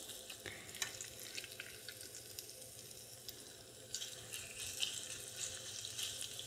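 Chicken-and-egg tortita mixture sizzling faintly in a little hot oil in a nonstick frying pan, with a few light clicks from the silicone spatula. The sizzle grows louder about four seconds in as more mixture goes into the oil.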